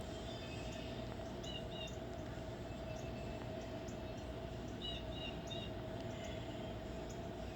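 Small bird chirping in short high double notes, twice about a second and a half in and three times about five seconds in, over a steady outdoor hum.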